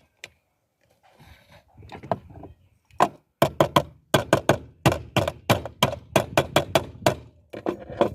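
A pan being tapped to change its safety valve: quick, sharp knocks, about four a second, starting about three seconds in, after a moment of faint scraping.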